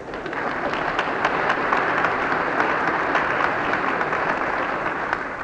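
Large audience applauding, a dense patter of many hands clapping on an old 78 rpm disc recording. It swells about half a second in and dies away near the end.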